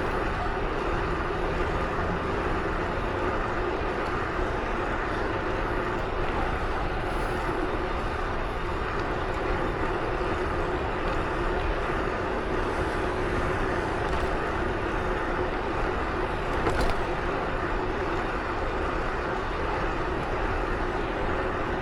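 Steady running and wind noise of a vehicle travelling at an even speed, with one short tick about seventeen seconds in.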